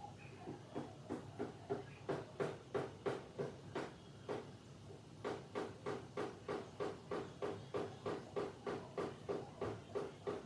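Rhythmic knocking or striking, about three short strokes a second, with a brief pause a little before halfway.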